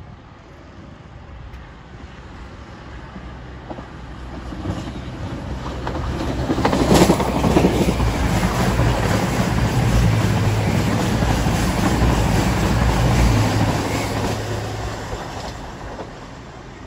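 Diesel passenger train approaching and passing close by: its engine and wheel noise swell, peak sharply about seven seconds in, stay loud for several seconds, then fade.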